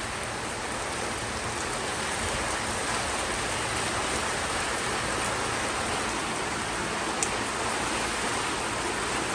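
Steady rain falling, a constant even hiss of rain on surfaces.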